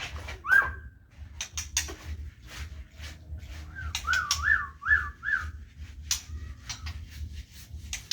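A bird whistles: one short rising note about half a second in, then a quick run of five up-and-down notes around the middle. Scattered knocks and clatter of cleaning run throughout, over a steady low hum.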